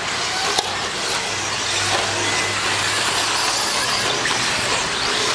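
Several electric RC stadium trucks racing, their brushless motors and drivetrains making a steady high whine over tyre noise, with one sharp clack about half a second in.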